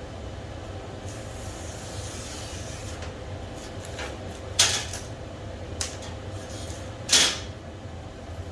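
Two loud, sharp knocks about two and a half seconds apart, with a lighter tick between them, over a steady low hum.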